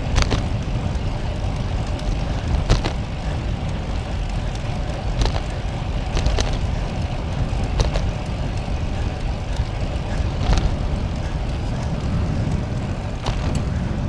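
Wind rushing over the microphone of a moving bicycle, a steady low rumble, with a few sharp clicks scattered through it.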